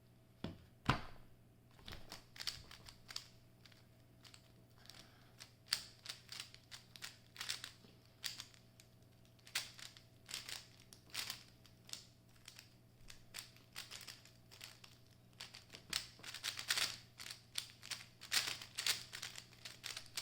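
A 3x3 speedcube being turned fast through a full timed solve: quick, irregular runs of plastic clicking and clacking as the layers snap round, starting about a second in.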